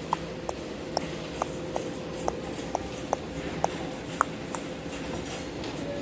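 A series of light, irregular clicks or taps, about two a second, some with a short ringing ping, over a steady background hum.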